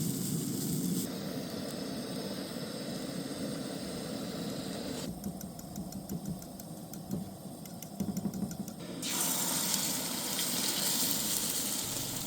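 Bacon and eggs sizzling in a frying pan, heard in several short clips that change abruptly about every four seconds, with the brightest hiss near the end.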